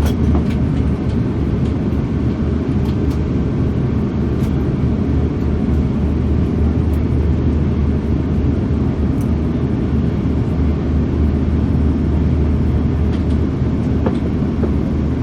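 Steady low rumble of cabin noise inside an Airbus A340-600 airliner, with a few faint ticks.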